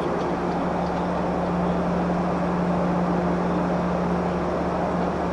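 A standing diesel passenger train idling at the platform: a steady hum with a constant low drone that does not change.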